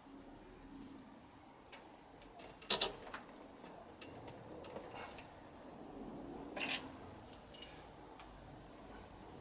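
Scattered light clicks and clinks of small metal parts and tools being handled, with two sharper knocks about three seconds and about seven seconds in.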